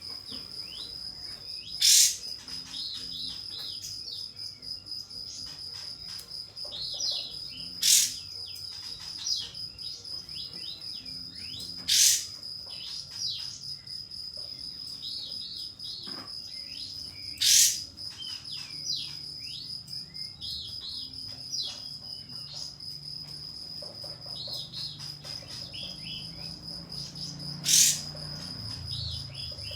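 Sooty-headed bulbul (kapas tembak) calling in quick, short falling chirps, with five loud, sharp calls a few seconds apart. A steady, high insect trill, like a cricket, runs underneath throughout.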